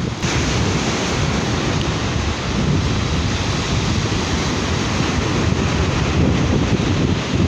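Sea surf washing onto a beach with wind buffeting the microphone: a steady, loud noise with no separate events.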